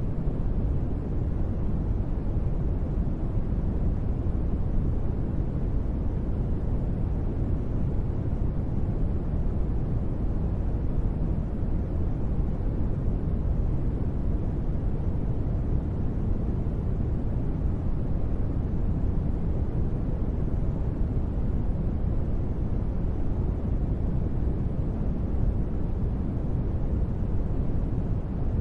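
Steady, even ambient noise bed, deep and rumbling, heavy in the low end and soft in the highs, like brown noise, with no changes or events.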